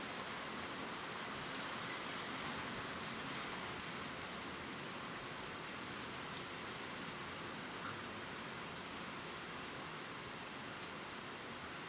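Gentle, steady rain ticking on leaves: an even hiss with faint scattered drop ticks.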